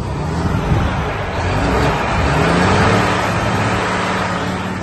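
Volvo FM420 truck's 13-litre six-cylinder diesel engine running and revved, the engine note rising about two seconds in, then holding and easing slightly.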